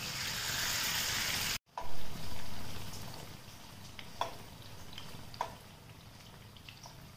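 Batter-coated potatoes shallow-frying in hot oil in a nonstick pan, a steady sizzle. It breaks off for an instant about a second and a half in, comes back louder and then slowly fades. Near the middle come two light clicks as a steel spoon touches the pan.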